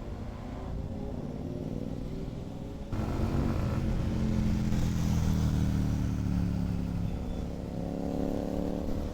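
Kawasaki Z900 motorcycle's inline-four engine running under way. It gets abruptly louder about three seconds in, its pitch falls off in the middle and rises again near the end.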